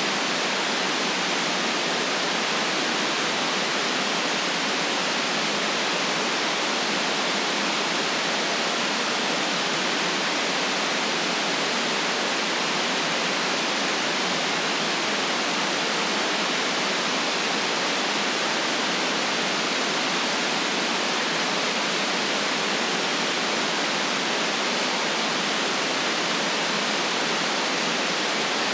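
Steady synthetic white noise: an even, unbroken hiss with no low rumble and no change in level.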